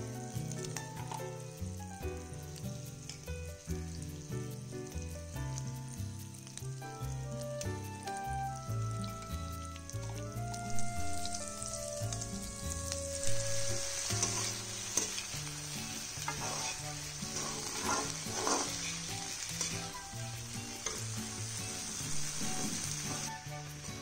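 Food frying and sizzling in a wok, the sizzle growing stronger about halfway through, with a metal spatula stirring and scraping the pan. Soft background music plays underneath.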